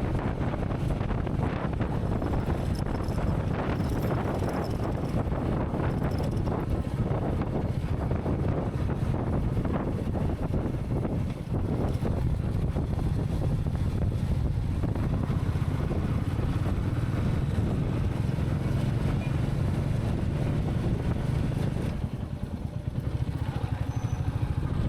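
Royal Enfield Meteor 350's single-cylinder engine running steadily under way, with the wind rushing past. It eases off and gets briefly quieter a few seconds before the end.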